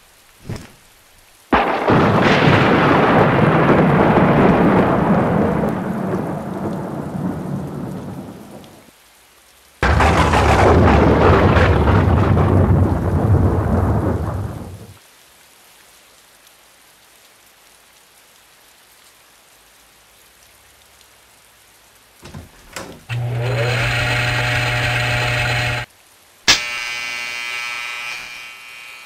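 Two thunder claps, each starting suddenly and dying away over several seconds. Later comes a steady electric buzz, then a sharp crack and the crackling buzz of a spark arcing between the lab's coil towers.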